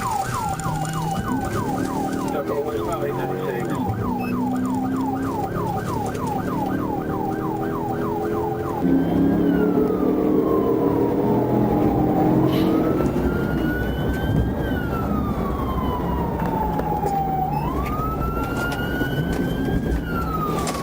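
Police cruiser siren during a pursuit, first in a fast yelp of about three rising sweeps a second, then switching about nine seconds in to a slow wail that rises and falls over a few seconds per cycle.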